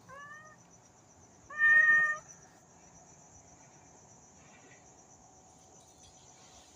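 A cat meowing twice: a short, faint meow at the start, then a louder, longer meow about a second and a half in.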